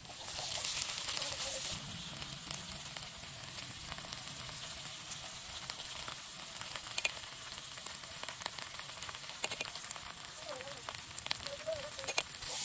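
Sliced onions, green chilies and spices sizzling steadily in a small aluminium wok over a wood fire. The sizzle is loudest in the first couple of seconds, then settles, with a few sharp clicks, the strongest about seven seconds in.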